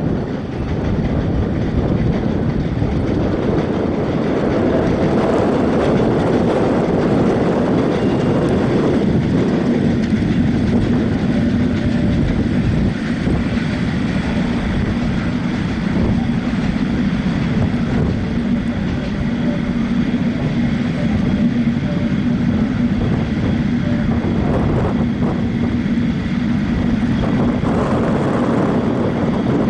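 Broad-gauge passenger train running over a railway bridge: a loud, steady rumble of coach wheels on the rails, with a steady hum joining about nine seconds in.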